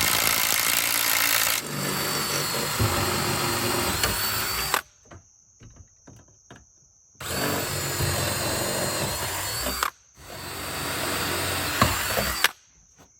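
Power drill boring bolt holes, in three runs of a few seconds each with short pauses between.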